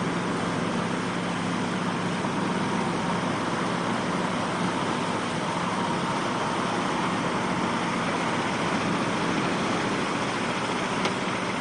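A vehicle engine running steadily under a constant rushing noise, with a single sharp click near the end.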